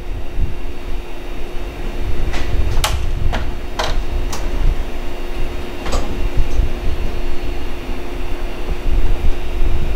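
Parked 115-series electric trains standing with their equipment running: a steady low rumble and a constant hum, with a handful of sharp clacks and knocks between about two and six seconds in.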